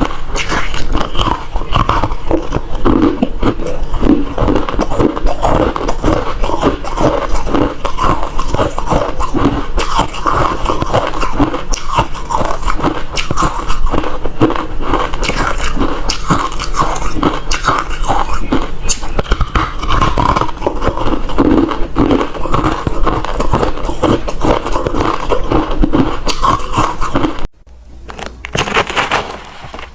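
Close-miked chewing of refrozen crushed ice: steady, dense crunching and crackling, with a brief pause near the end.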